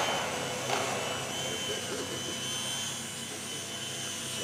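Kyosho Minium Extra 330SC micro RC airplane's small electric motor and propeller whining steadily in flight, with a short knock just under a second in.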